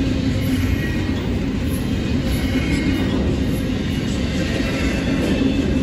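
Double-stack intermodal freight train's well cars rolling past close by, a steady loud rumble of steel wheels on the rails.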